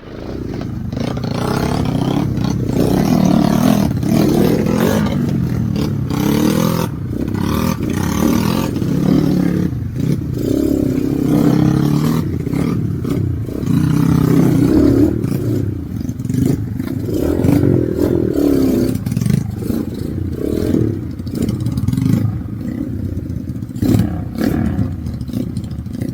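Motorcycle engine running and revving, its pitch rising and falling again and again, with scattered knocks and clatter over rough ground.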